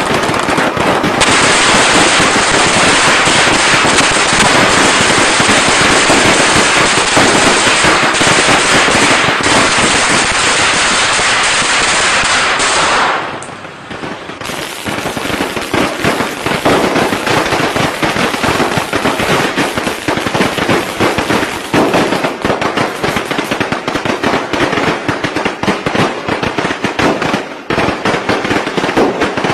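Strings of traditional firecrackers going off in a dense, continuous crackle of rapid bangs. Partway through the sound briefly drops away, then another string takes over with a rattle of sharp pops.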